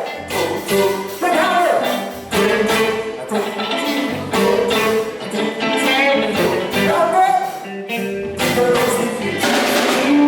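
Gospel music: a band with drum kit playing at a steady beat, with a voice singing over it.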